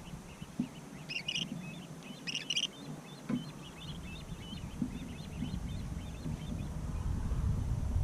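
Small birds chirping in quick, short calls, busiest about one to three seconds in. A low wind rumble on the microphone builds up toward the end.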